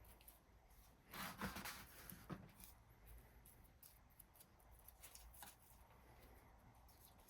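Near silence: room tone, with faint scraping and rustling handling sounds about a second in.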